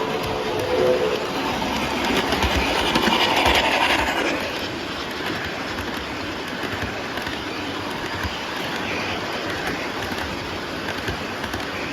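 MTH PS2 model of the C&O 610 Greenbrier 4-8-4 steam locomotive running on track with cars, the wheels clicking over the rail and the sound system playing along; a held whistle-like tone ends about a second in. It swells around two to four seconds in, as on a run-by, then settles.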